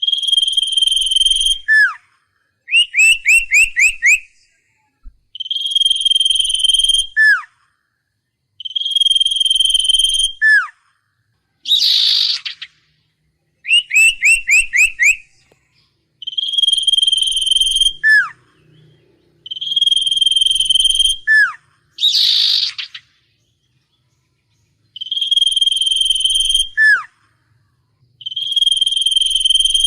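A songbird that Vietnamese keepers call the Huýt Cô is singing loud, clear whistled phrases. Most phrases are a long, even note ending in a quick falling slur, repeated every few seconds. Twice the bird gives a run of four or five quick rising notes, and twice a harsh rasping note.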